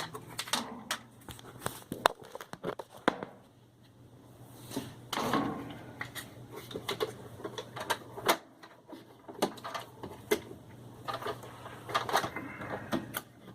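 Scattered clicks, knocks and scrapes of the washing machine's plastic shift actuator being handled and worked into place by hand, with the part's finger being hooked into its loop. A faint steady low hum sits underneath.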